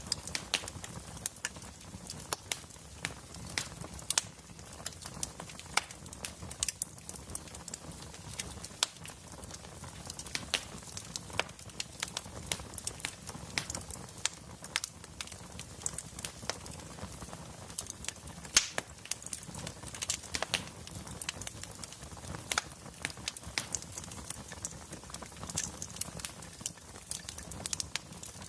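Wood fire burning in a fireplace, logs crackling with many sharp, irregular pops over a low steady rumble.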